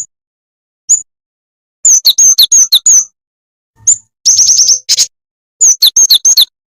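Jingjing tetep bird calling as a lure recording: single sharp, high chirps, then three quick runs of rapid, high, down-slurred notes, with a lone note between the second and third runs.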